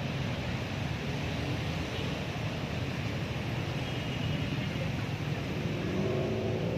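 A train passing close by: a steady rumble of wheels on the rails, with a diesel engine note coming up near the end.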